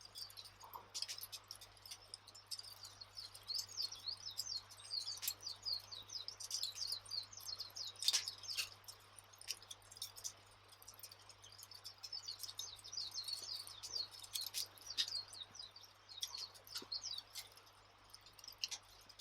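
Campfire ambience: a wood fire crackling with scattered sharp pops, over birds chirping busily.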